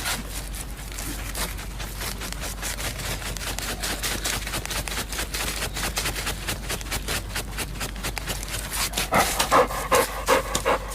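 A dog panting rapidly and rhythmically.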